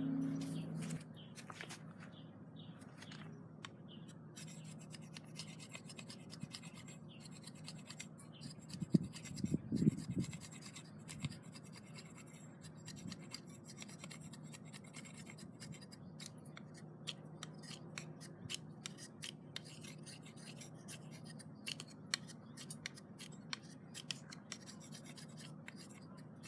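Scratching and scraping of hands at work, with scattered light clicks, and a louder clatter of handling about nine to ten seconds in.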